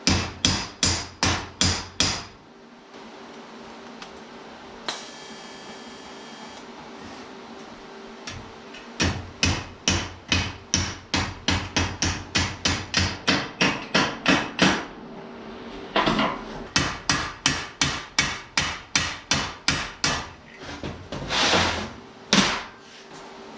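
A hammer striking sheet steel in runs of steady blows, about three a second, with pauses between the runs, as the trunk gutter pieces are formed. A faint steady hum runs underneath.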